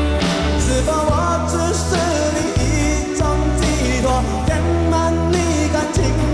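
Live pop-rock band music with a man singing the lead vocal over a strong bass line and drums.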